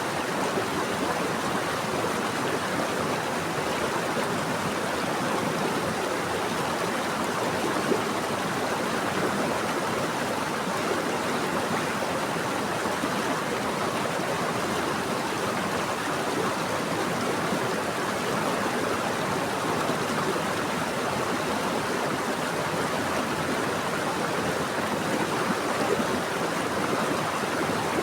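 Water flowing steadily over rocks in a stream, with an even rushing sound.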